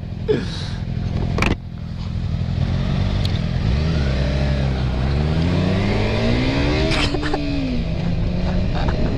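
Motorcycle engine accelerating hard through the gears, its pitch climbing, falling back at each upshift and climbing again, then easing off near the end.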